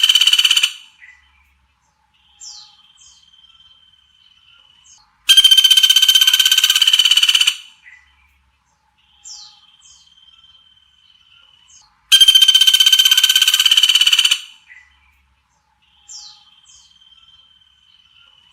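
Looped masteran recording for training songbirds. A loud buzzy, trilling call about two seconds long repeats three times, roughly every seven seconds. Between the calls come two short soft downward-sliding whistles and a thin held high note.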